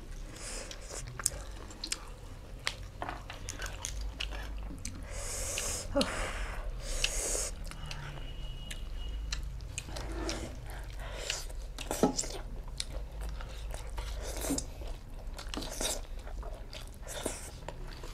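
A person chewing and biting mouthfuls of food close to the microphone, with many short wet clicks and brief crunches scattered throughout.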